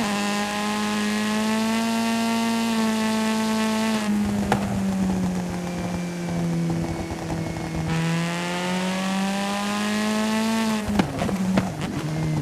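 Remote-control car running with a steady motor drone whose pitch drifts slowly. A scraping hiss joins it for a few seconds in the middle, and a few sharp knocks come near the end.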